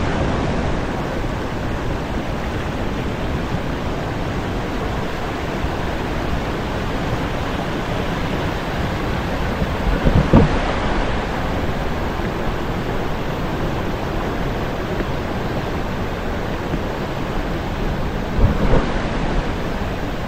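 Rushing water of a mountain stream, a steady even hiss, with two brief low bumps, one about halfway through and one near the end.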